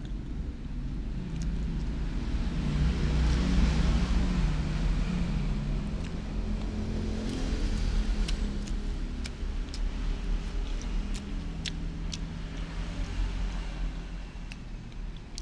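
A motor vehicle engine running close by, growing louder about three to four seconds in and again near the middle, with a few sharp clicks in the second half.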